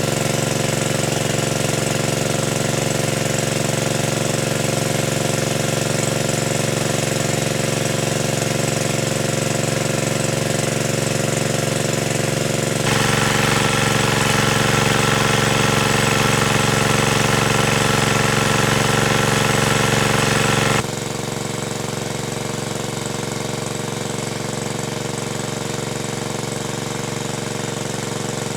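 A small engine running steadily. It gets suddenly louder about thirteen seconds in and suddenly quieter about eight seconds later.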